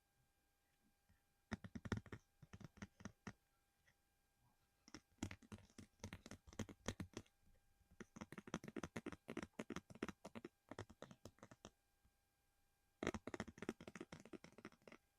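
Rapid tapping and clicking on a small object close to the microphone, in four bursts of a second or more each with brief pauses between them.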